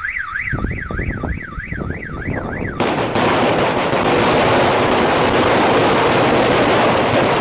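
A long string of firecrackers going off: scattered sharp bangs at first, then from about three seconds in a dense, continuous rattle of rapid-fire cracks. A car alarm warbles up and down over the first few seconds.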